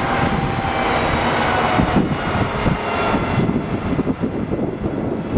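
Crane truck's engine running steadily with a rumbling drone, and a faint whine that fades out about two seconds in.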